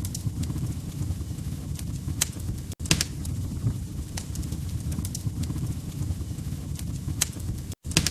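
Wood fire in a fireplace crackling: a steady low rumble of flames with irregular sharp pops and snaps. The sound cuts out for an instant twice.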